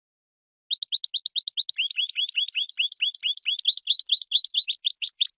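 European goldfinch singing: a fast trill of short rising notes starting under a second in, thickening after about two seconds into a denser twitter with dropping notes woven through, then breaking off suddenly.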